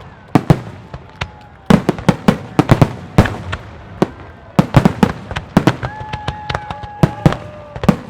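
Aerial firework shells bursting in rapid volleys of sharp bangs and crackles, with short lulls between the volleys. A held whistling tone sounds about six seconds in.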